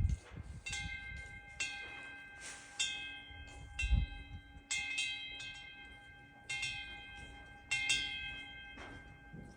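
Korean eaves wind bell (pungyeong) rung by the wind, struck at irregular intervals every second or two. Each strike rings on with several clear overtones that fade slowly. There are low rumbles from wind on the microphone near the start and about four seconds in.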